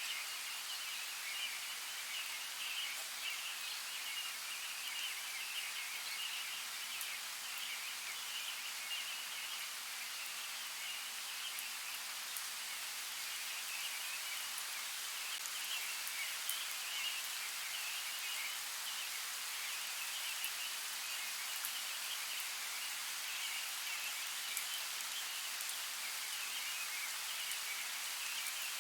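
Steady rain falling, an even hiss with scattered sharp drop ticks, under a continuous high fluttering chirr.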